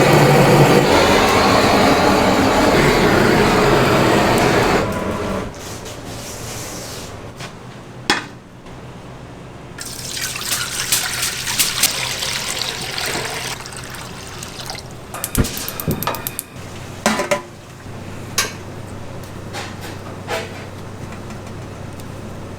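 Kitchen sounds with running water: a loud rush of water for the first five seconds, then quieter clatter with scattered knocks and clicks, another short spell of running water about halfway, and a quick run of ticks a little after.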